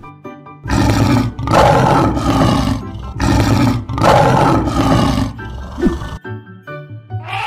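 Lion roaring: two long, loud roars lasting about five seconds, set between stretches of light background music.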